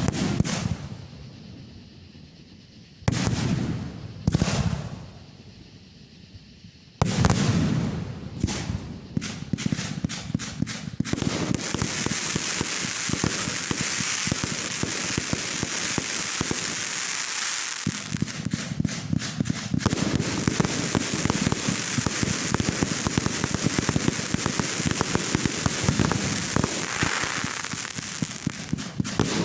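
Fireworks going off: four loud bangs in the first seven seconds, each fading away, then a dense rapid crackling of many small pops that goes on without a break.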